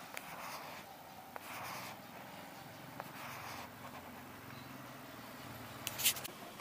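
Faint handwork on a car's mud flap fastenings: scattered light clicks and soft rustling, with a sharper clatter of clicks about six seconds in.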